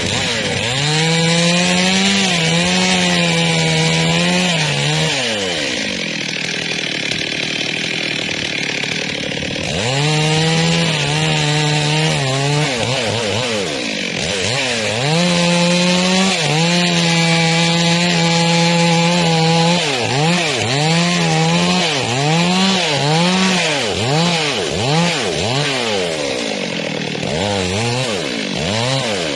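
Two-stroke chainsaw cutting through a tree, the engine held at high revs in long steady stretches with drops in pitch between cuts. From about two-thirds of the way in, the throttle is revved up and down repeatedly, the note rising and falling roughly once or twice a second.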